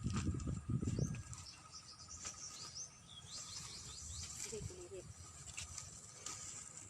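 Outdoor ambience of small birds chirping in short high calls, most of them about two to four seconds in, over a steady insect trill. There is rustling and handling noise in the first second.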